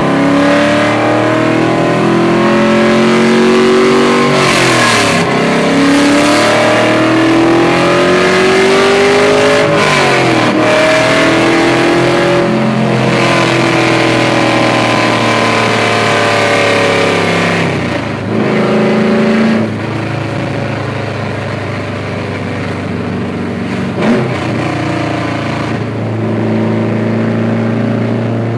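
Straight-piped LS1 V8 in a Mazda RX-7, heard loud from inside the cabin on light throttle. The engine note climbs in pitch and drops back sharply several times, as at gearshifts, with steadier cruising stretches between.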